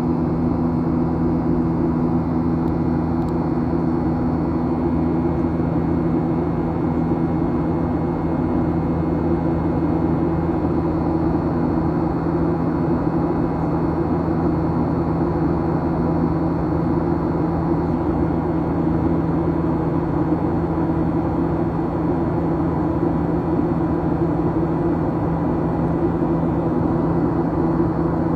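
Steady cabin noise inside a Boeing 737-800: an even rush with a low, unchanging hum from its CFM56-7B turbofan engines.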